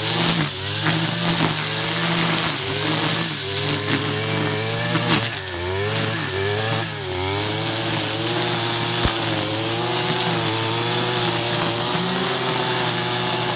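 Stihl FR 480 backpack brushcutter's two-stroke engine running: its pitch wavers and dips repeatedly over the first half, then holds steady.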